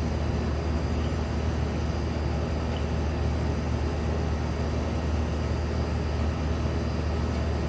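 A steady low rumble with a hum, unchanging throughout, under a few faint ticks of handling.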